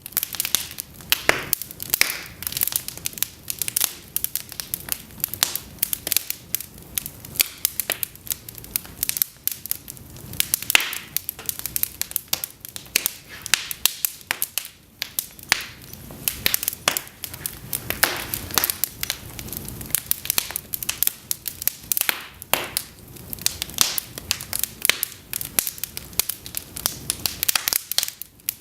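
Cedar logs burning in an open fireplace: constant irregular crackling and sharp snapping pops over a soft low rush of flame.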